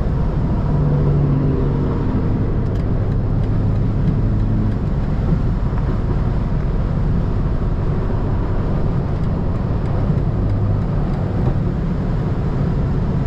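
Inside the cabin of a stage 2 tuned BMW 330i: its four-cylinder engine droning steadily at highway speed under tyre and road noise.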